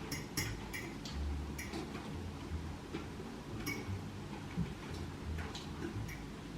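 Irregular light clicks of cutlery against a plate during a meal, with dull low thuds underneath.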